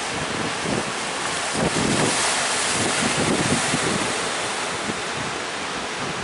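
Strong sea wind buffeting the microphone over the rush of breaking waves, swelling louder for a couple of seconds about a second and a half in.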